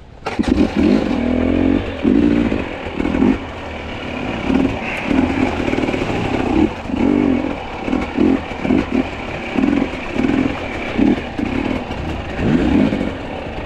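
Two-stroke enduro dirt bike engine revving in short, repeated throttle bursts, rising and falling about once a second.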